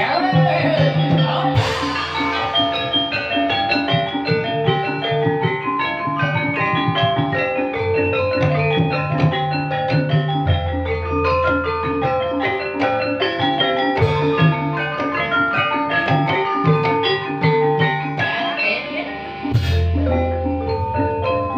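Ebeg accompaniment music: an ensemble of mallet-struck metallophones plays an even, busy pattern over drums, with deep sustained low notes about halfway through and near the end. A gliding melodic line rises over it near the start and again near the end.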